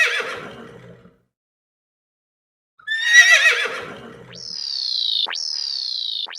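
Horse whinnying: the tail of one whinny, then after a short silence a second, shaky whinny about three seconds in. Near the end a series of high, falling whistle-like notes begins, about one a second.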